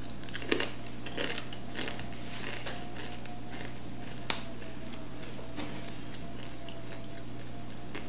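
A child chewing a piece of crisp cooked bacon: small crunchy clicks through the first few seconds, over a steady low hum and a faint whine.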